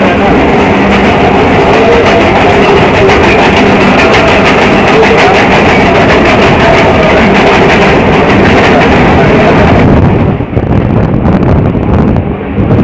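Mumbai suburban electric local train running at speed, heard from inside the carriage at the window grille: a loud, steady rush of wheels on rails and air with a fast, fine rattling clatter. About ten seconds in the high clatter falls away and the noise turns duller, with a brief dip.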